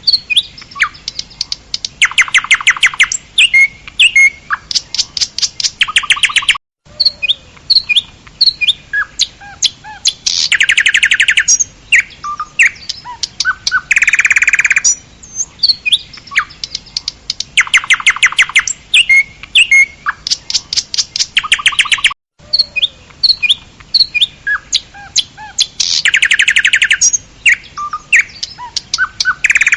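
Songbirds chirping, with fast even trills of about ten notes a second between scattered short chirps and whistles. The same passage repeats about every fifteen seconds, with a brief dropout each time, as a looped recording does.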